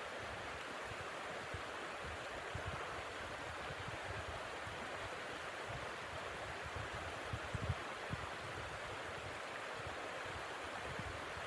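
Steady rushing wind through the forest in a snowstorm, with irregular low thumps of gusts hitting the microphone, the strongest about two thirds of the way in.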